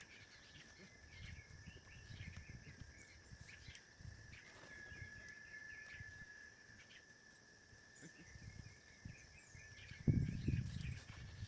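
Faint outdoor ambience: a steady high-pitched insect drone with scattered short bird chirps over it, and a low rumbling noise that swells into a brief louder thump near the end.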